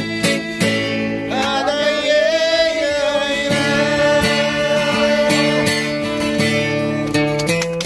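Acoustic guitar strummed in steady chords under a sung Korean pop ballad. The voice comes in about a second in and holds one long note.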